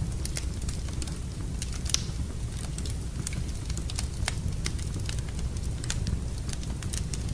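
Fire burning in a fireplace, crackling with irregular sharp pops over a steady low rumble; the loudest pop comes about two seconds in.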